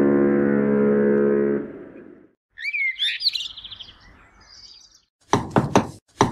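A steady low droning tone fades out, then gulls cry briefly. Near the end a small door is knocked on several times.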